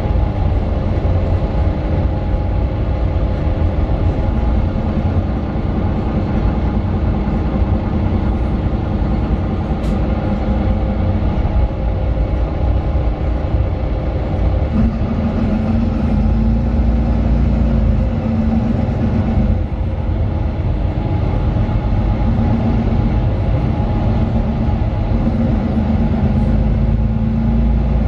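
Mercedes-Benz Citaro bus's OM 936 six-cylinder diesel engine running, heard from inside the passenger cabin as a steady low rumble. About halfway through, a stronger low droning note sets in and comes and goes.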